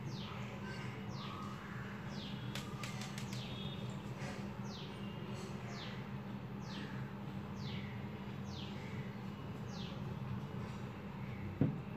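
A bird calling: a short high chirp that falls in pitch, repeated about once a second, over a steady low hum. A few sharp clicks come about three seconds in, and a single thump near the end.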